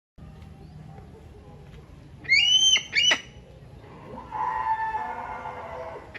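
A bird calling: two short, high, shrill calls about two seconds in, then a longer, lower call with a wavering tone lasting about two seconds.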